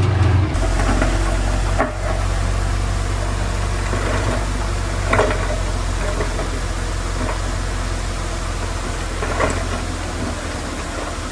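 Heavy diesel earthmoving engine running steadily at low revs, its note dropping to a lower, quieter run about half a second in. A few short metallic clanks come through over the engine.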